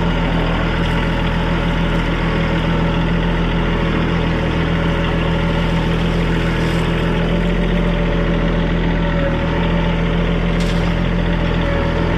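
TYM compact tractor's diesel engine running steadily at a constant speed, with no change in revs.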